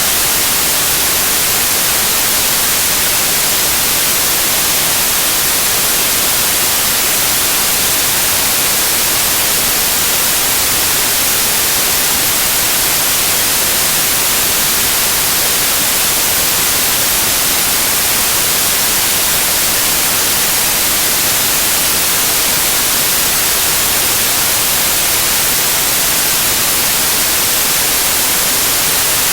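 Loud, steady white noise: an even hiss, brightest in the high frequencies, with no changes or other sounds.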